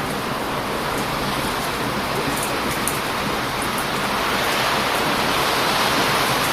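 Heavy surf rushing onto a beach, with the wash swelling louder about four seconds in. Faint sharp crackles from a wood campfire pop through it a few times.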